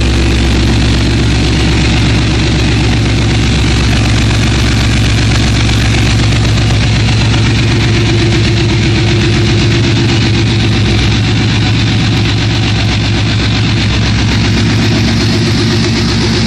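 Built, Whipple-supercharged 5.4-litre V8 of a 2006 Mustang GT idling steadily, about a minute after being fired up; it runs clean and smooth.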